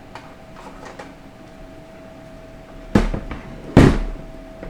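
Metal parts of a 4L60E automatic transmission handled and set down on a workbench: a few light clicks, then two heavy clunks about a second apart near the end.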